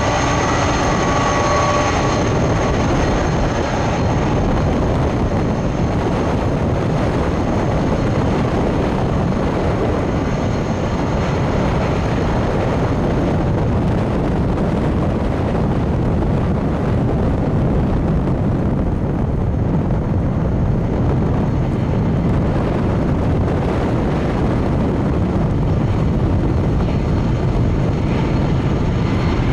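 Boeing 767-300F freighter's twin jet engines running steadily as it taxis and lines up on the runway: a constant rumbling noise with a faint high whine. At the very end the whine begins to rise as the engines spool up for take-off.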